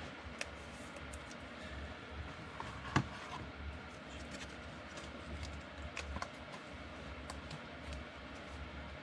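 Trading cards being handled: light scattered clicks and taps of cards being flipped and set down, with one sharper knock about three seconds in.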